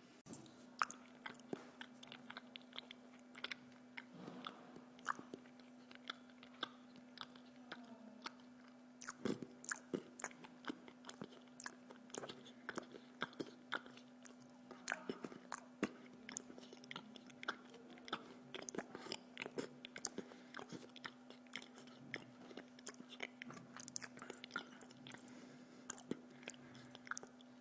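A person chewing and biting food, with many irregular small clicks and crunches, over a steady low hum.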